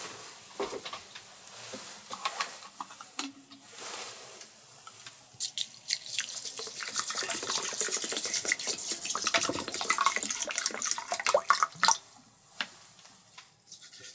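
Water running and splashing into a sink, with small clicks and knocks mixed in; it starts about five seconds in and stops suddenly near the end.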